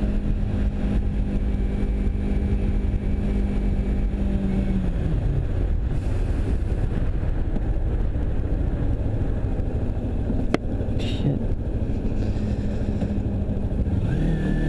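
Motorcycle engine heard on the rider's microphone over wind and road noise: the revs hold steady, drop about five seconds in as the bike slows, and stay low for several seconds, with a single sharp click near the ten-second mark. Near the end the revs climb again as the bike pulls away.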